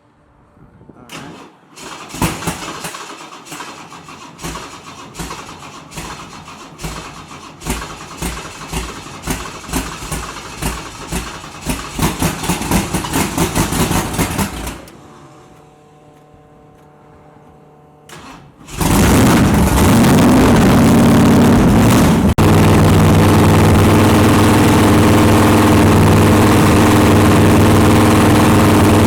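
Big-block Ford 460 V8 cranked on the starter for a long stretch, chugging at about two pulses a second without catching. After a pause of a few seconds it is cranked again, fires and runs loud and steady: the first start on a donor carburettor.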